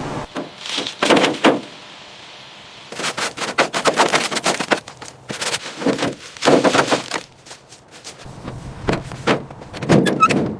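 Rapid sharp knocks coming in four bursts of about a second each, separated by quieter gaps.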